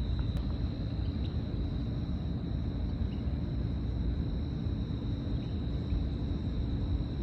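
Steady low rumble of outdoor background noise with a thin, steady high-pitched tone over it.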